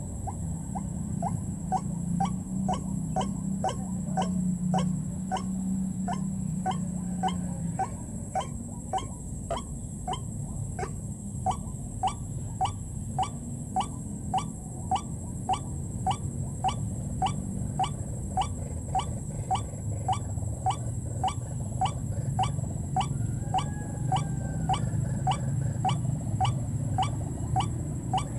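White-breasted waterhen calling: a monotonous, unbroken run of short call notes, about two a second.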